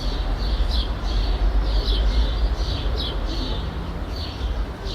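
Small bird chirping over and over, about two short chirps a second, over the steady low rumble of distant city traffic.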